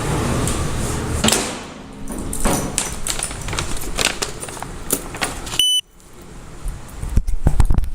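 Handling noise on a body-worn camera: rustling and rubbing with many sharp clicks and jangles as the wearer moves. About two-thirds through, a short high beep, then the sound drops out suddenly before the rattling and clicks start again.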